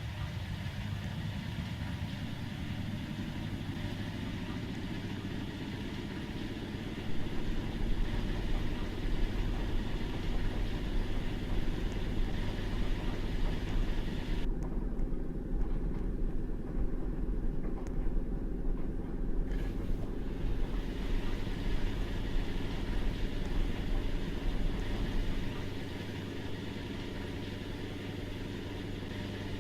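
Washing machine drum motor spinning up, with a whine that rises over the first several seconds and then holds steady as the drum runs at speed. About a quarter of the way in, a louder, uneven churning noise sets in over the steady running, and it eases off near the end.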